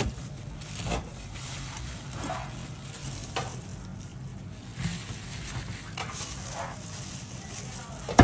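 Food sizzling in hot oil, with a utensil stirring and knocking against the pan every second or so, and one loud knock at the very end.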